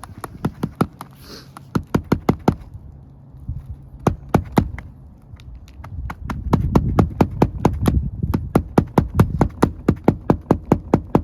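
Hammer driving nails into roof shingles: quick runs of light, sharp taps, about four or five a second, with a short pause about three seconds in.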